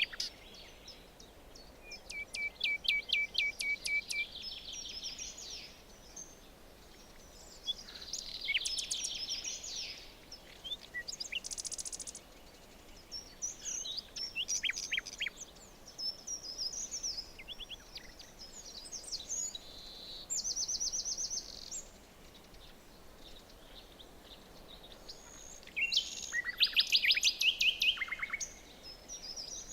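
Several songbirds singing in turn in a forest: short trilled phrases, rapid chirps and whistled notes, one after another with brief quiet gaps, over a faint background hiss.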